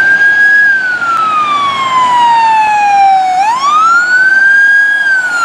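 Siren wailing: one loud tone slides slowly down in pitch, swoops quickly back up about three seconds in, and begins to fall again.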